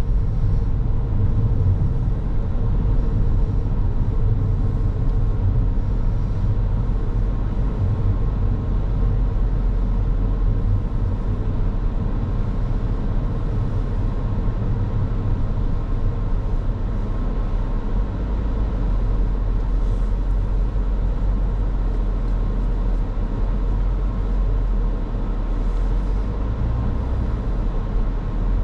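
Car being driven: a steady low rumble of road and engine noise.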